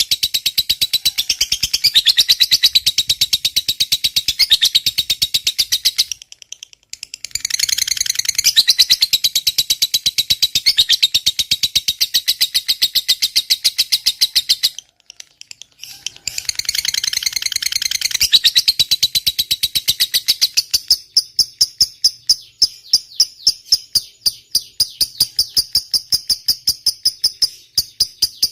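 Lovebird chattering in a long, fast, high-pitched trill ("ngekek panjang"), broken by two short pauses. Near the end the notes slow to separate chirps, about three a second.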